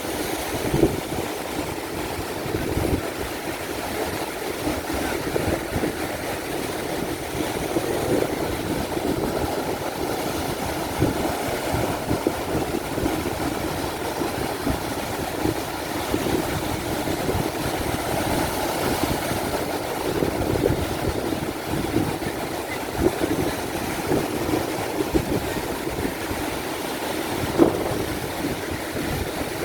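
Ocean surf breaking in a steady wash, with strong wind buffeting the microphone in irregular gusts.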